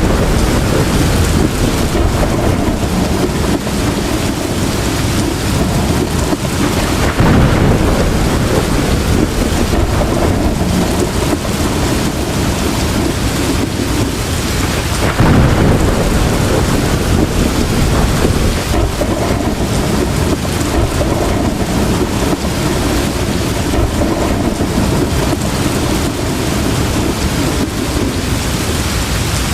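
Heavy rain falling steadily, with thunder rumbling about seven seconds in and again about fifteen seconds in.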